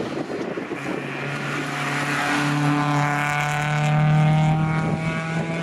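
Suzuki Swift GTi rally car driving past at high revs. The engine note climbs a little in pitch, then holds steady, growing louder to its peak about four seconds in.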